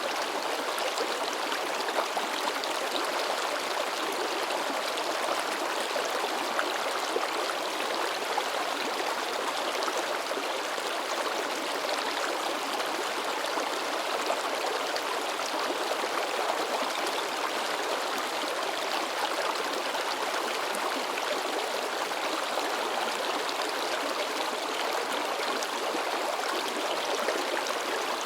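Mountain river babbling and splashing over rocks: a steady rush of flowing water with close, lively sloshing.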